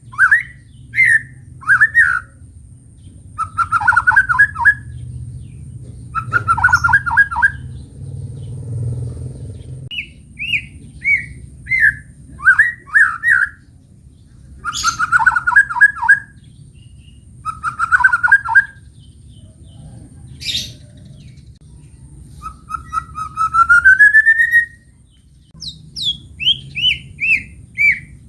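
White-rumped shama (murai batu) singing: short phrases of rapid whistled notes repeated every second or two, with a longer rising phrase a little before the end.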